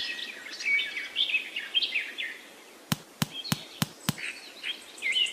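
Small birds chirping repeatedly, with five sharp clicks or taps in quick succession, about three a second, around the middle.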